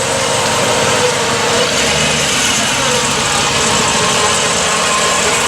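Car engine idling and running steadily close by, as cars roll in to a car show.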